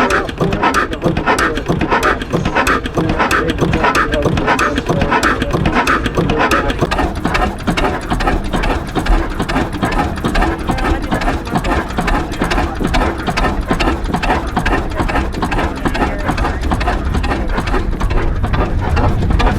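Large antique stationary engine running with a steady, even mechanical beat over a low drone.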